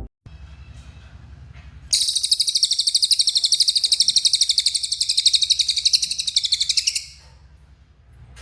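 Cililin bird singing a long, very rapid, high trill lasting about five seconds, starting about two seconds in after a few faint chirps, over a low steady hum.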